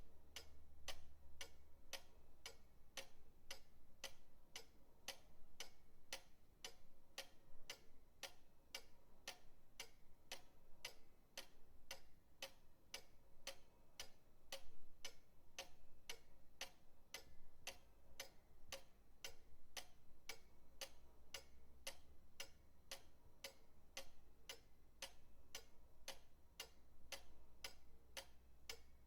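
Pendulum clock ticking steadily, about two ticks a second, with a faint low hum underneath.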